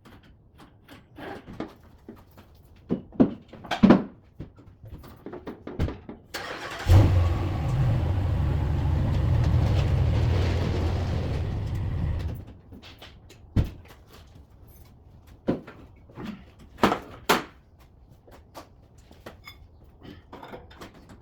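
A motor runs steadily for about five seconds, starting abruptly about seven seconds in and cutting off suddenly. Scattered knocks and clunks come before and after it.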